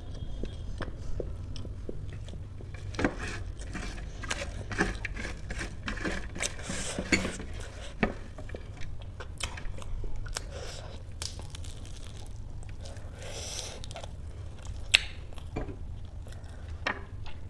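Close-miked chewing of crisp fried kachori, with many short sharp crunches and crackles, some of them from the flaky pastry being broken and handled with the fingers.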